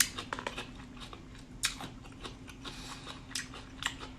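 Close-miked eating: a sharp crisp bite right at the start, then chewing of crunchy steamed vegetables dipped in sauce, with scattered wet crunches and smacks.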